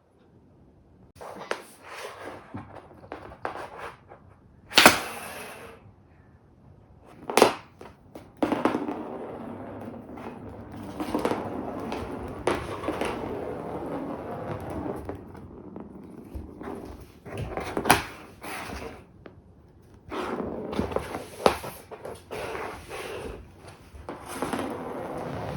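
Irregular knocks and thumps, a few of them sharp and loud, between stretches of rustling and scraping.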